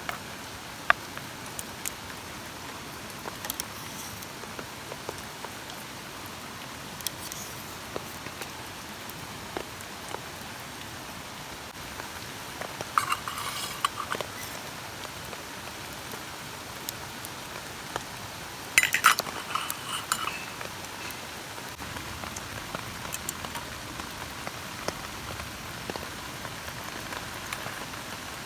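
Steady rain falling on a camp tarp, with scattered louder drips. Two short runs of clinks stand out, one about halfway through and one about two-thirds through.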